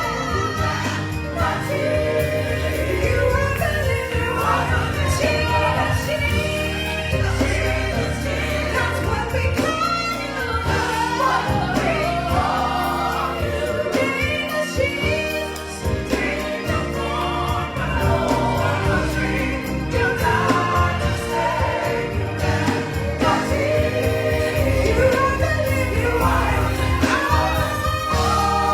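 Gospel choir singing with a live band: a steady bass line underneath and frequent drum or percussion hits.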